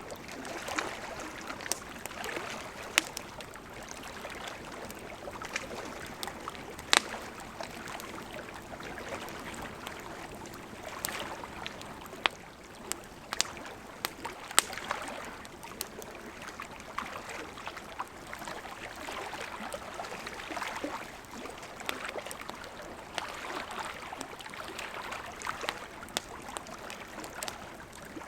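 Campfire crackling, with irregular sharp pops a few seconds apart, over a steady wash of small lake waves lapping at the shore.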